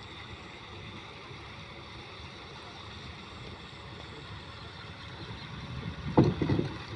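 Steady rumble and wind noise of a boat under way, with a short loud knock about six seconds in.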